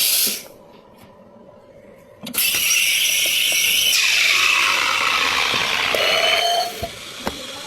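Espresso machine steam wand: a short blast of steam, then a loud steady hiss of about four and a half seconds with a tone that slides down in pitch, as milk is steamed.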